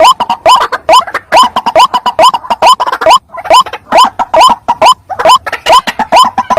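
White-breasted waterhen (ruak-ruak) calls, a recorded lure call: loud, short rising notes repeated about three times a second, with a brief pause a little past halfway.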